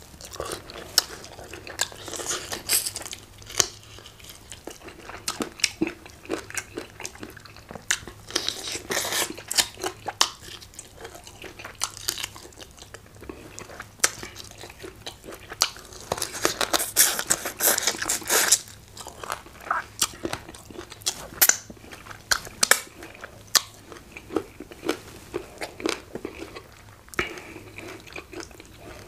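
Close-up biting and chewing of tough hard-chicken pieces: a steady run of short crunches and wet clicks, busiest about eight to ten and sixteen to eighteen seconds in.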